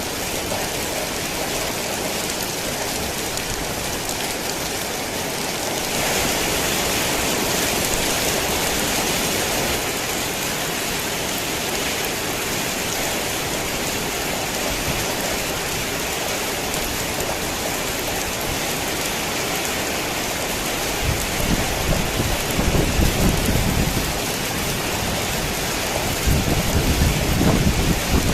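Heavy rain falling with a steady hiss that grows a little louder and brighter about six seconds in. Low thunder rumbles twice in the second half.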